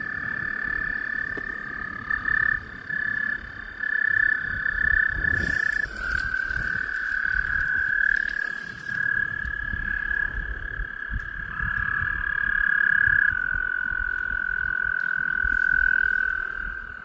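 Breeding chorus of toads: several long, steady, high trills overlapping, one call taking over as another ends. A brief rustle about five seconds in.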